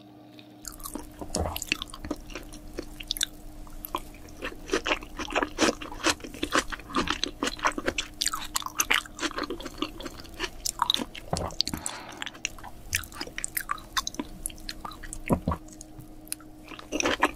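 Close-miked wet chewing and mouth sounds of someone eating raw salmon: dense smacking and clicking that starts under a second in, over a faint steady hum.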